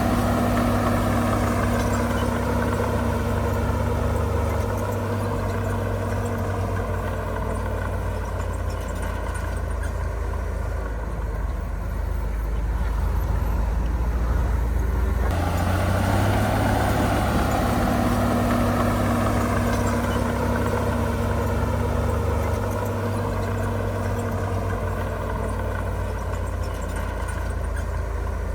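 Heavy earthmoving machinery's diesel engine running, its pitch drifting slowly up and down as the load changes. The sound shifts abruptly about halfway through.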